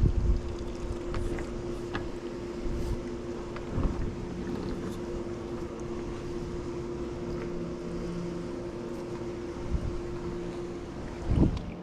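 Swimming pool pump motor running with a steady hum while it draws water through the vacuum hose, with a few short low thumps scattered through.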